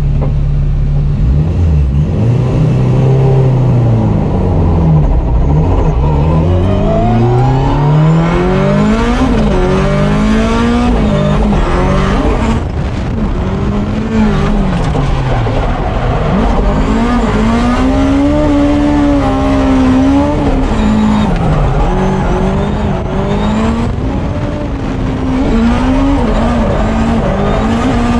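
Honda S2000 drift car's engine revving hard, its pitch climbing and falling over and over as the car is driven.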